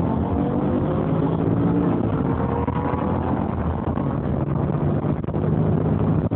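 Mercedes-Benz SLR McLaren's supercharged V8 accelerating flat out, its engine note rising slowly, with heavy wind rush.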